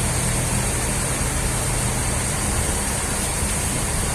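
Steady running machine noise with a low hum that fades out about two and a half seconds in.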